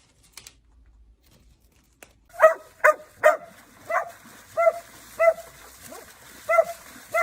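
A dog barking in a regular series of short barks, about eight of them, starting a couple of seconds in after a quiet stretch.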